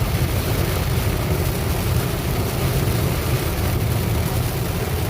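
Steady noise inside a moving car in the rain: a low rumble of engine and tyres under an even hiss.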